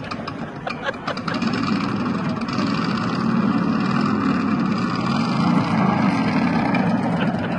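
Motorcycle engine running with a wavering engine note, growing louder about a second in.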